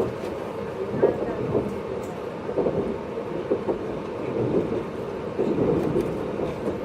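Running noise inside a 583-series EMU motor car under way: a steady low rumble with irregular knocks and bumps from the wheels and bogies, the sharpest about a second in.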